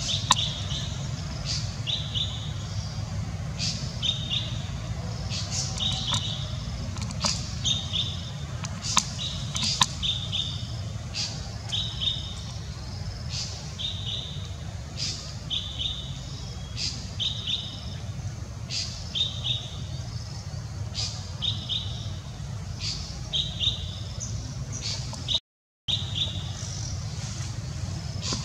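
A bird repeating a short, high chirping call about once a second, over a steady low rumble. The sound cuts out for half a second near the end.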